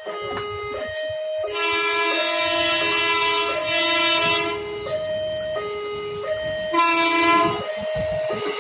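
Railway level-crossing warning alarm alternating between a high and a low tone, each held about two-thirds of a second. An electric commuter train's horn sounds over it twice: a long blast starting about a second and a half in, and a shorter one near the end.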